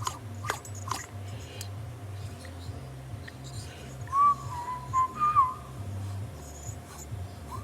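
A person whistling a few short, gliding notes in the middle, over a steady low hum, with a couple of light clicks in the first second.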